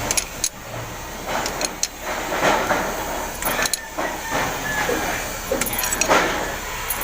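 Metal hand tools clinking and scraping on the valve rocker gear of a Howo 336 diesel engine during a valve clearance adjustment: a series of short, sharp metallic clicks with a few brief scrapes between them.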